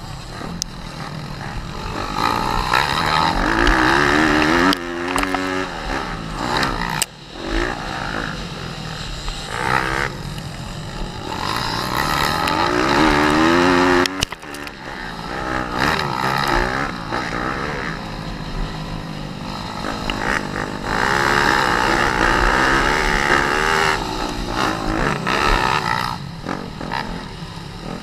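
Pit bike's small four-stroke single-cylinder engine being ridden hard, its note climbing with the throttle, then dropping sharply and climbing again several times.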